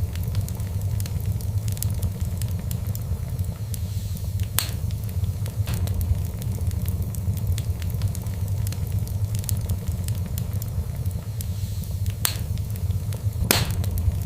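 Wood fire crackling over a steady low rumble, with many small ticks and a few louder pops about four and a half seconds in, around twelve seconds in, and loudest near the end.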